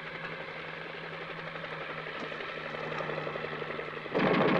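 Helicopter approaching, its rotor and engine sound slowly growing louder. About four seconds in, a sudden loud burst of machine-gun fire.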